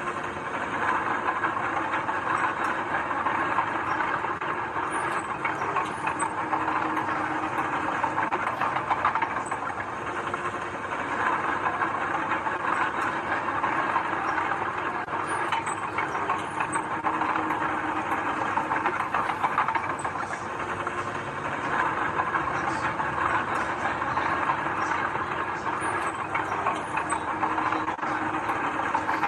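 Heavy diesel earthmoving machinery running steadily under load, a dense rattle over the engine noise, swelling and easing a few times.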